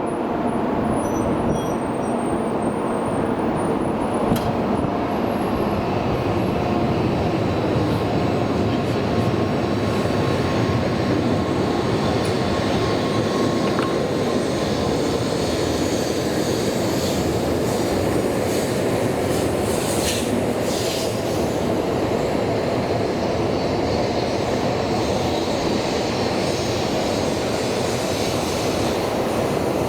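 Shinkansen train running along the platform, a steady loud rumble of wheels and running gear on the rails, with a few light clicks.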